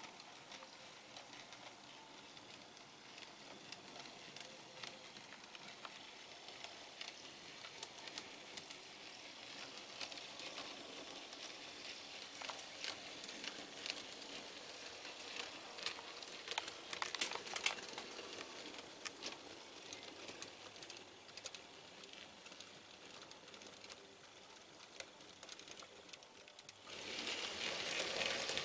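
00 gauge model train, a locomotive reversing a coach and a light wagon over handbuilt trackwork: a faint rolling hiss with scattered small clicks of wheels over rail joints and pointwork, the clicks busiest midway. Near the end the sound suddenly gets louder.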